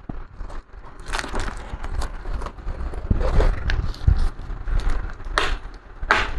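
Crackling, scraping and scattered clicks of broken plastic laptop casing being handled and pulled apart around the snapped hinges.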